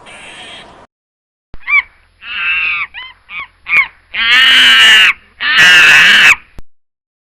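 A series of animal calls: a few short ones, then two long, loud, wavering calls back to back.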